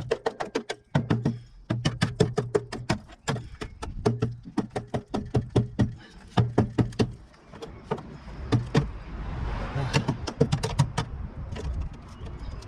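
Rapid metal strikes on a car's body panel, about five or six a second in short runs, while rusted steel is cut out of a wheel arch. The strikes thin out into scattered knocks over a rougher scraping noise in the second half.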